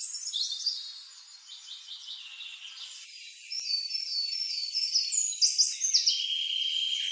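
Birdsong: a run of high chirps and short whistled notes, with one longer steady whistle near the end.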